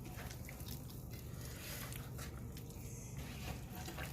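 Faint wet squishing and small smacks of bare hands rubbing softened butter over and into a raw whole chicken.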